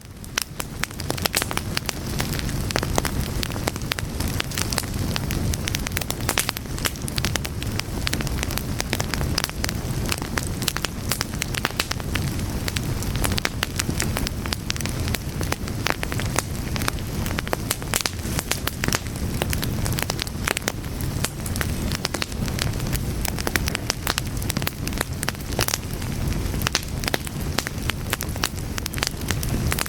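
A fire crackling steadily, with many sharp pops and snaps over a low, even rumble.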